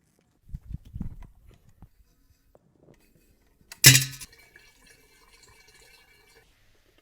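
Low knocks, then a single sharp metallic clank just before the middle, which rings on for a couple of seconds as it fades, as of a metal tool or part struck or set down during work on a car.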